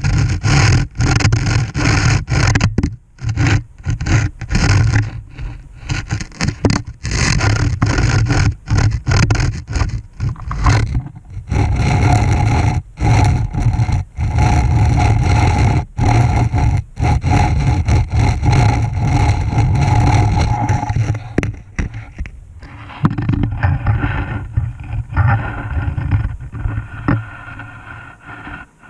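Borehole camera scraping and rumbling against the walls of a drill hole as it is lowered, loud and rough, broken by many short gaps.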